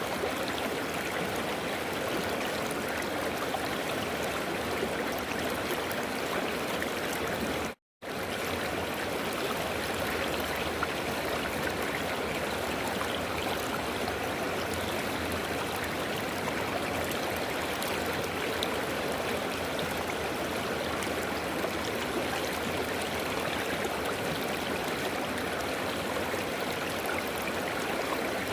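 River water flowing over rocks: a steady rushing and burbling. It drops out to total silence for a moment about eight seconds in, then resumes.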